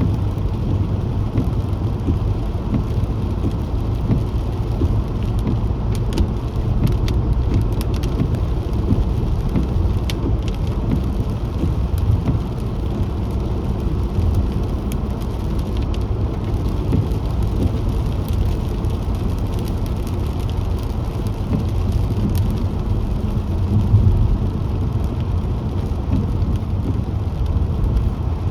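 A car driving on wet roads in the rain: a steady low rumble of road and engine noise, with a few faint ticks scattered through it.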